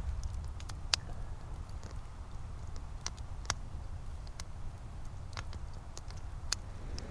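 Campfire crackling: scattered sharp pops at irregular intervals over a steady low rumble.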